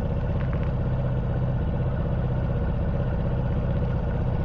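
Honda Wave 110cc's single-cylinder four-stroke engine running at low, steady revs with an even, rapid putter.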